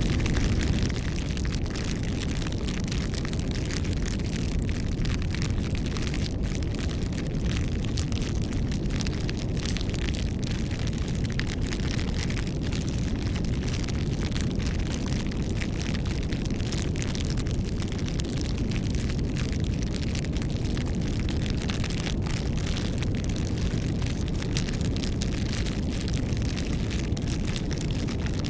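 Campfire burning: a steady low rumble of flames with frequent small, irregular wood crackles and pops.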